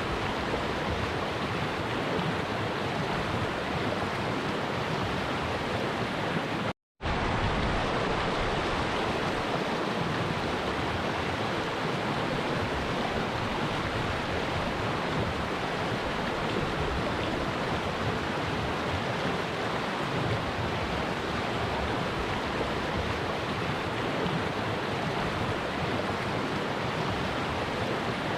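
A stream flowing: steady rushing water, briefly cut off for a split second about seven seconds in.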